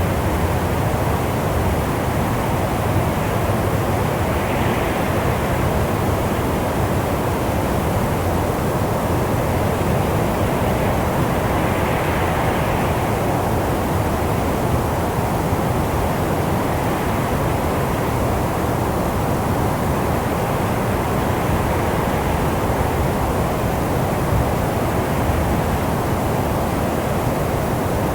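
Steady rushing wind, a dense even noise weighted toward the low end, with a couple of soft swells of higher hiss as gusts rise and fall.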